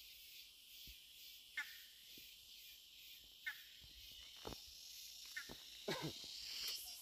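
A bird giving short squawks that drop in pitch, about one every two seconds, over a steady high hiss. A few knocks come near the end.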